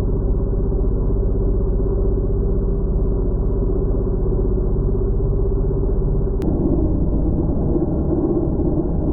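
Carvera Air desktop CNC mill cutting, heard as a deep, muffled, steady rumble with a held low hum, like machining audio slowed down. About six and a half seconds in, a click is followed by an abrupt change to a rougher rumble.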